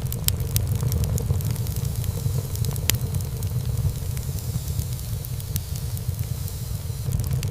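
Wood fire burning in a fireplace: a steady low rumble of flames with scattered crackles and small pops of burning wood, one sharper pop about three seconds in.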